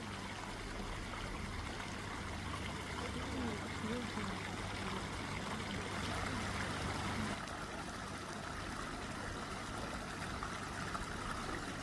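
Running water trickling and flowing steadily, with a faint voice in the background during the first part.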